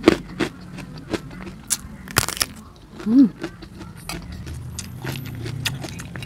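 Close-up eating sounds: chewing fried rice and crunchy basreng, with many sharp mouth clicks and crunches, and a metal spoon clinking and scraping on an enamel plate. A brief hummed 'mm' about three seconds in, over a steady low hum.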